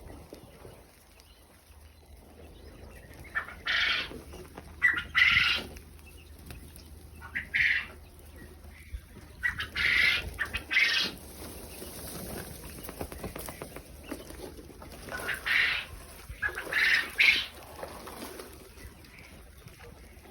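Quail calling in short, harsh bursts, about nine in all, several coming in quick pairs, over a low steady hum.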